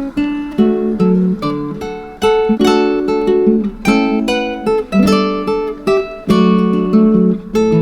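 Background music: acoustic guitar playing, plucked and strummed chords with a quick rhythm.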